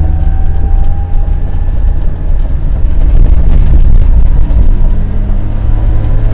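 Skoda Felicia rally car's engine and road noise heard from inside the cabin: a steady low rumble, with the engine note rising slowly over the first couple of seconds as the car gently picks up speed.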